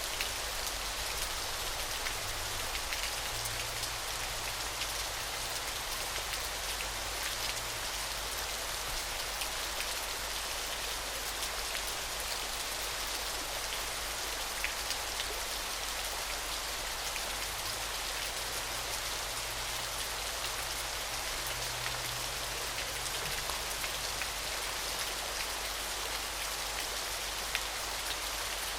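Waterfall: a steady hiss of falling water, even throughout, with a spatter of fine splashes through it.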